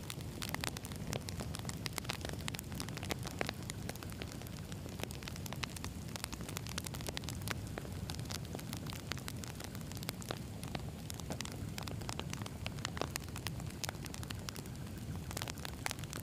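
Wood fire burning steadily, with a constant low rumble of flames and frequent sharp, irregular crackles and pops from the burning logs.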